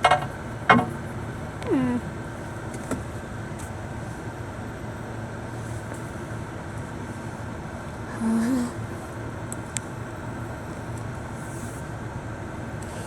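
Truck engine running steadily with a low hum. There are two sharp knocks near the start and two short voice-like sounds, one falling in pitch about two seconds in and one later.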